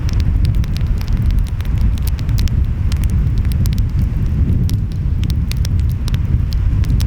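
Wood fire crackling, with many short sharp pops at irregular intervals, over a steady low rumble of ocean waves and wind.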